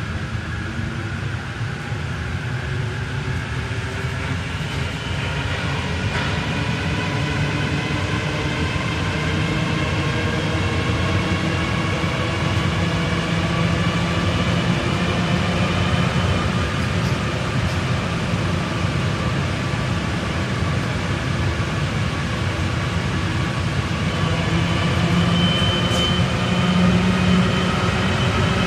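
Rubber-tyred Paris Métro line 1 train running between stations, heard on board: a steady rolling rumble under a motor whine of several tones that climbs slowly in pitch as the train picks up speed, then holds roughly level.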